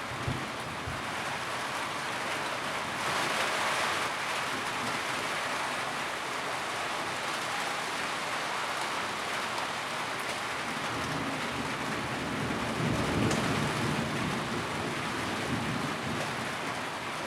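Steady rain drumming on a tin roof, a dense even hiss of drops on metal. The downpour swells briefly about three seconds in, and a low rumble rises and fades around twelve seconds in.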